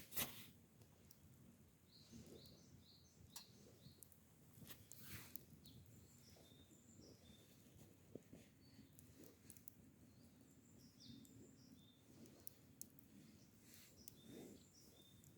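Small birds chirping faintly in short high calls throughout, with scattered sharp clicks and pops such as a wood campfire gives, the loudest just at the start.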